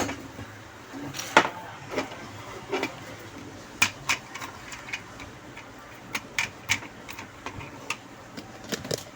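Scattered light clicks and taps at irregular intervals, small hard objects handled on a workbench, such as test probes and tools knocking against a circuit board.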